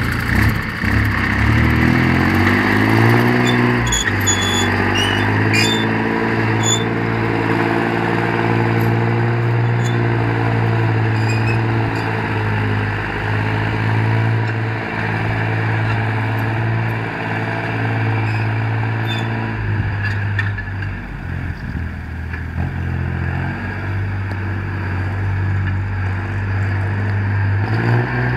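Belarus 320 tractor's diesel engine running, speeding up over the first few seconds and then holding a steady speed, with a brief dip and unsteadiness about two-thirds of the way through before it picks up again near the end.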